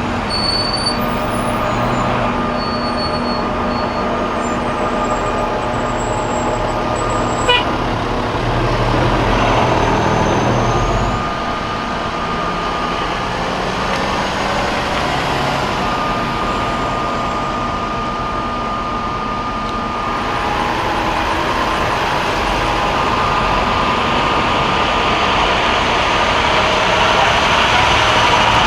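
Steady noise of heavy vehicles passing in a procession, with long held horn tones coming and going. One sharp click about seven and a half seconds in.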